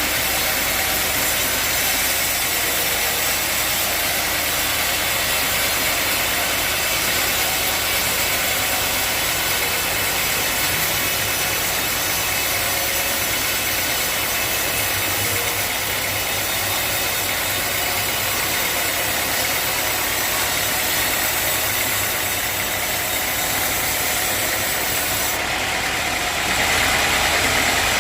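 Sawmill running steadily, its engine humming under the hiss of the saw, getting a little louder near the end.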